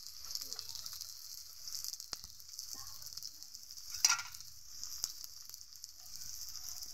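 Battered jute leaves frying in shallow oil in an iron karahi: a steady high sizzle with a few sharp snaps, the loudest about four seconds in.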